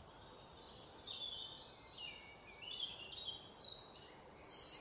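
Several birds singing and chirping, high-pitched overlapping calls with short falling notes, growing denser and louder about halfway through, with a fast trill near the end.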